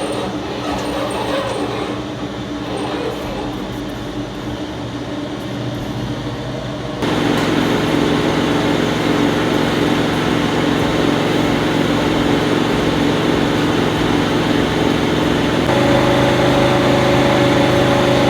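Steady mechanical hum with a low whine from a running machine. It steps up abruptly in level and pitch about seven seconds in and again near the end.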